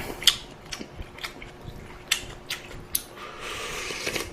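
Close-up mouth and utensil sounds of someone eating ramen: several short sharp clicks and smacks, then about a second of slurping near the end.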